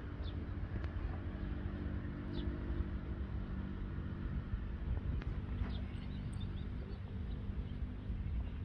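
Benelli Leoncino 250's single-cylinder four-stroke engine idling steadily.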